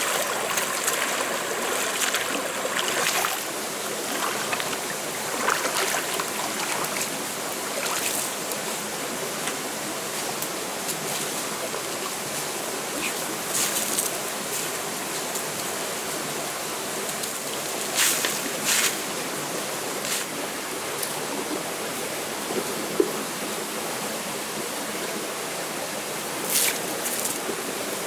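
Steady rushing of running water, with a few short sharp clicks or knocks scattered through it.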